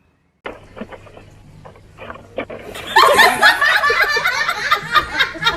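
Several people laughing loudly, starting about three seconds in, over a steady low hum.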